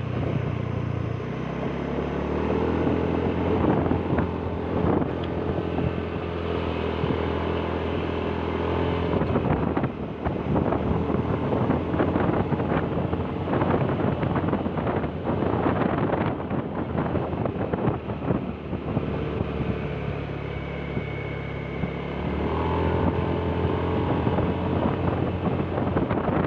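Vehicle engine running on the move, its pitch shifting near the start and again later as it changes speed, with wind buffeting the microphone.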